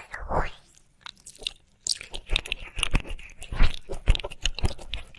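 Wet mouth sounds close to the microphone: a lick, then a short pause about a second in, then a quick irregular run of tongue-and-lip clicks and smacks.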